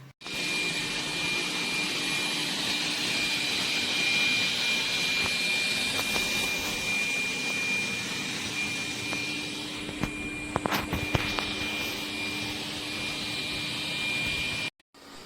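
Dreame D9 Max Gen2 robot vacuum running: a steady whirring rush of its suction fan with a thin high whine, a few clicks about ten to eleven seconds in, cutting off suddenly near the end.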